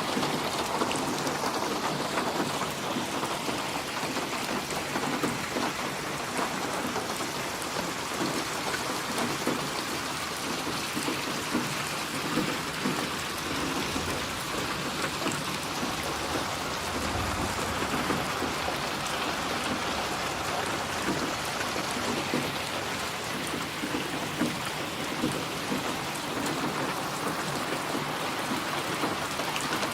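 Steady rain falling on a surface, with a low rumble of distant thunder swelling about halfway through.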